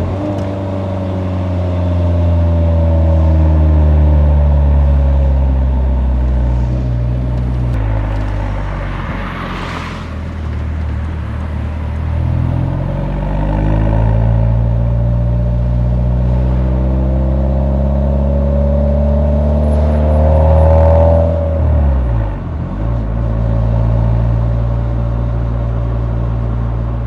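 Nissan 180SX's exhaust note heard while driving: a steady engine drone that climbs in revs around the middle. It climbs again and then dips sharply near the end, before settling back to a steady cruise.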